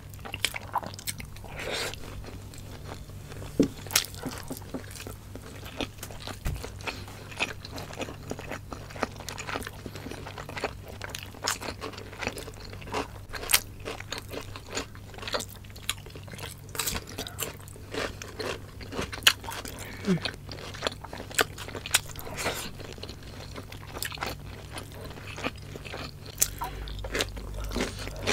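Two people chewing and crunching spicy adobo chicken gizzards and livers with rice, close to the microphone: many irregular crisp crunches and clicks, with a steady low hum underneath.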